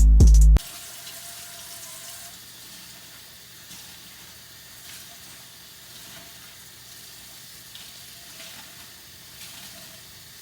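Faint, steady hiss of running water at the sink, with a few light clicks. Background music cuts off about half a second in.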